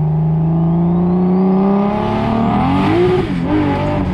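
Turbocharged BMW M52 straight-six pulling under acceleration: the engine note climbs steadily together with a rising turbo whistle. About three seconds in the pitch dips and wavers, then settles to a steady note.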